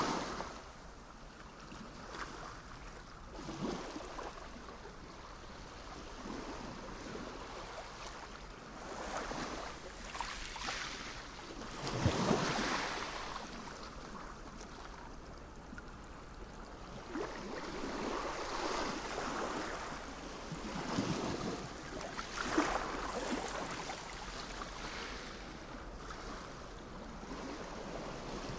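Sea waves breaking and washing onto the shore, each wave a swell of rushing noise every few seconds, the biggest about twelve seconds in, over a steady wash of surf.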